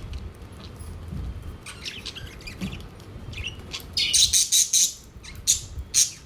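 Pet budgerigars chirping, with a loud burst of rapid chirps about four seconds in and two sharp calls near the end.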